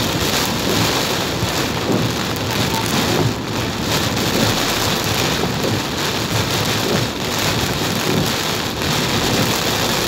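Heavy thunderstorm rain pouring down in a steady, dense downpour.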